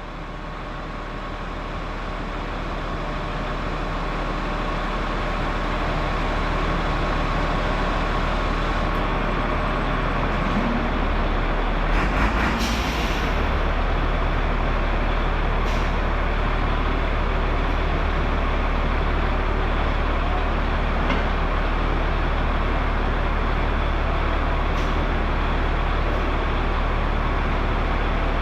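Steady machinery drone with a low hum, fading up over the first few seconds, with a short burst of hiss about twelve seconds in.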